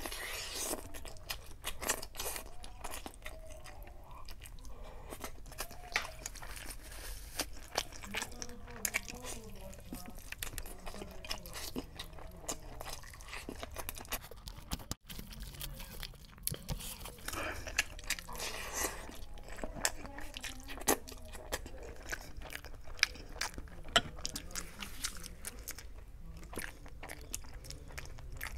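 Wet chewing and lip-smacking of a mouthful of chicken biryani, a steady run of quick clicks and smacks.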